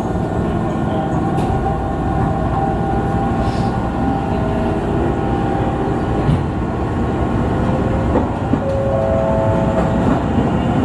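Izuhakone Railway 5000 series electric train running along the track, heard from the driver's cab: a steady rumble of wheels and running gear with a faint whine whose tones shift about eight seconds in.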